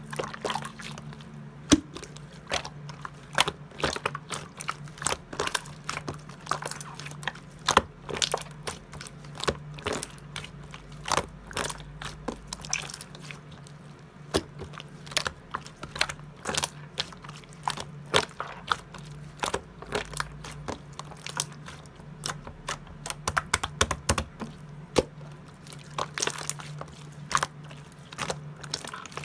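Purple pearl slime being squished and pressed by hand, making many quick, irregular sticky clicks and pops, over a faint steady low hum.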